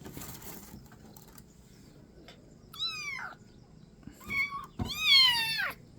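Kitten meowing three times, high-pitched calls that fall in pitch, the last one the loudest and lasting almost a second. A short rustle at the start.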